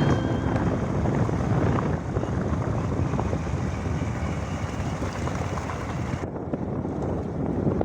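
Wind rushing over the microphone of a motorcycle-mounted or helmet camera while riding, with the motorcycle running underneath. About six seconds in, the sound turns muffled as the higher part drops away.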